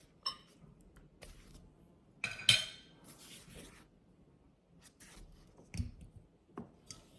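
Small household objects being handled: scattered light clicks and clinks, a brighter clatter about two and a half seconds in, and a dull thump near six seconds.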